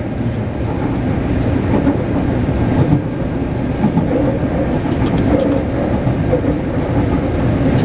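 Taipei Metro C381 train running at speed between stations: a steady rumble of wheels on rail with a faint running hum.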